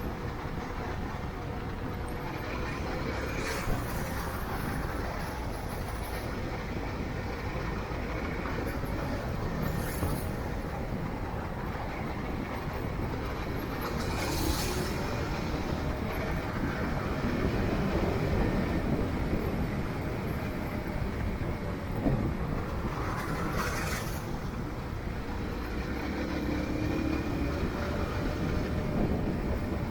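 Steady rumble of a motorcycle on the move: engine, tyre and wind noise, with a few brief hissing swells about every five to ten seconds.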